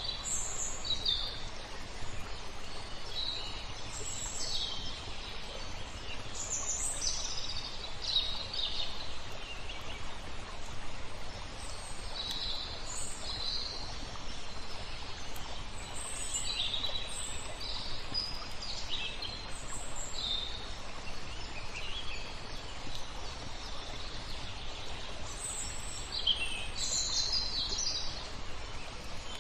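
Songbirds chirping and trilling in short, frequent phrases throughout, over a steady background hiss.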